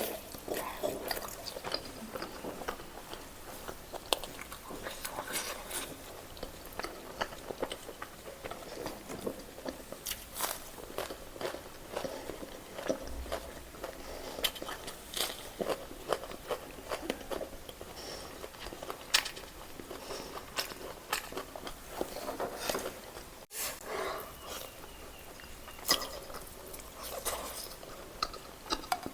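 Close-up eating sounds of roast chicken being bitten and chewed, with irregular crunches and wet smacks.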